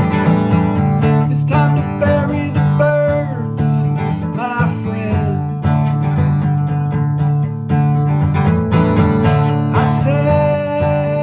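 Music: strummed acoustic guitar keeping a steady rhythm, with a bending lead melody over it, in an instrumental passage of a song.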